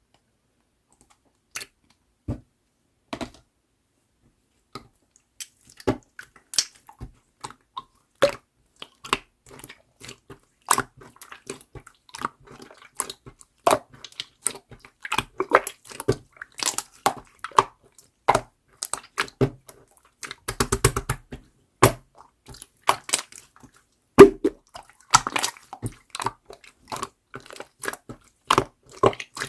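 Clear slime being squeezed and played with by hand, making irregular sharp clicks and pops. They start sparse and come thick and fast after the first few seconds, with a quick rattling run of clicks about two-thirds of the way in.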